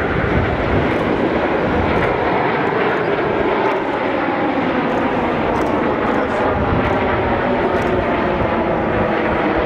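Steady jet engine noise from a formation of Aermacchi MB-339 PAN jet trainers flying past, with faint engine tones slowly falling in pitch.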